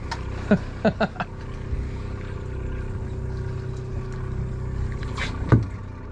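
Party boat's engine idling with a steady low drone while the boat drifts. A few short knocks come about a second in, and one sharper, louder knock near the end.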